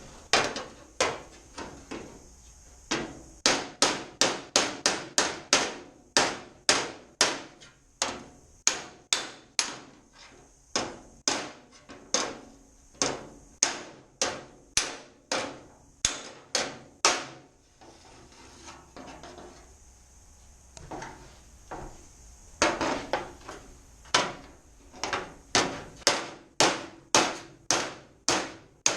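Hammer and dolly beating a bent aluminium diffuser panel back into shape: sharp repeated metal strikes, about two or three a second, easing to a few lighter taps about two-thirds of the way through before the steady hammering resumes.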